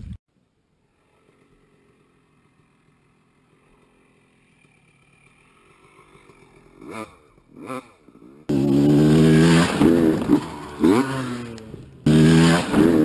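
Two-stroke motorcycle engine, faint at first and slowly growing, with two short revs about seven seconds in. It then becomes suddenly loud and close, revving up and down, with a brief drop near the end.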